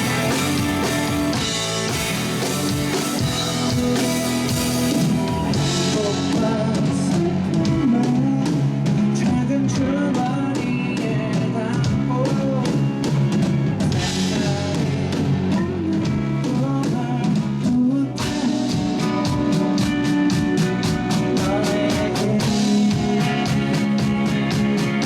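Indie rock band playing live: drum kit, electric guitars and bass, with a voice singing over them.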